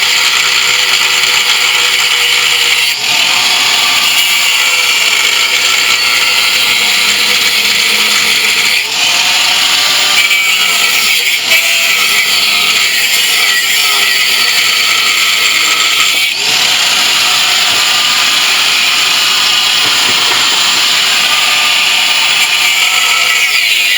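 Angle grinder running continuously under load, with its sound dipping briefly about three times, as if it is eased off the work and pressed on again.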